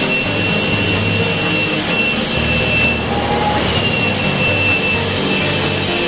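Steady machine noise with a thin, high, constant whine over a wide hiss and low hum, typical of car-wash equipment such as a pressure washer or vacuum.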